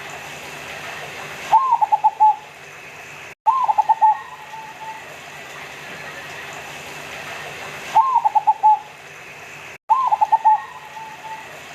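Zebra dove (local perkutut) cooing: four song phrases in two pairs, each an opening note followed by a quick run of about five short coos.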